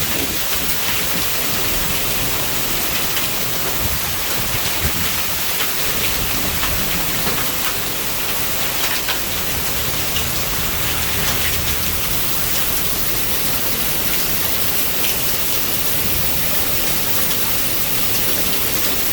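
Storm rain pouring hard and steady, with a few sharp taps scattered through it.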